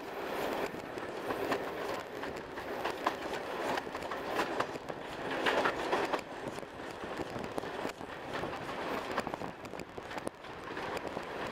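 A train's carriages running on the track, with a steady rumble and frequent irregular clicks and rattles from wheels and couplings, heard from an open carriage window.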